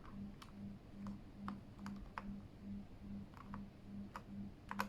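Scattered light plastic clicks from a Keychron K8 mechanical keyboard and its keycaps, ending in a quick run of key presses near the end. A faint low hum pulses about three times a second underneath.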